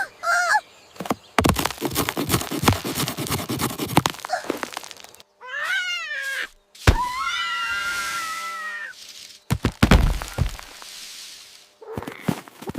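A run of clattering knocks and thuds, with a cat meowing: a short cry at the start, a wavering cry midway and a longer held call after it.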